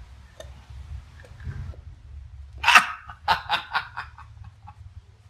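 Gull giving one loud call about two and a half seconds in, followed by a quick run of shorter calls that fade away, while it is being handled.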